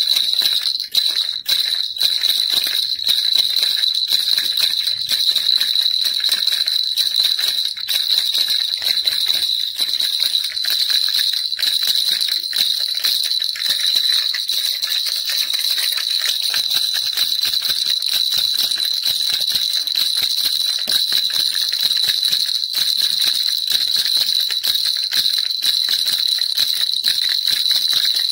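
Baby rattle shaken continuously, a dense fast jingling rattle with a steady high ringing tone over it.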